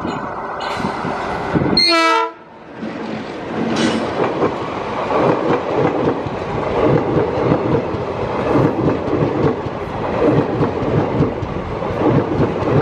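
Diesel locomotive (Erode WDG-3A) running past close by, with a short blast of its horn about two seconds in. Then its passenger coaches roll by, the wheels clattering repeatedly over the rail joints.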